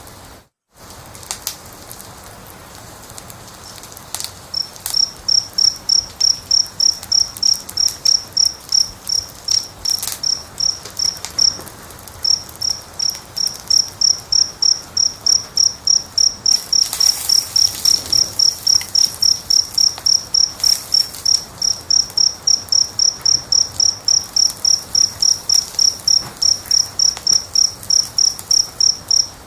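A cricket chirping in a steady, even rhythm, about two to three chirps a second, starting a few seconds in. Under it is a constant low crackle and hiss of a burning fire.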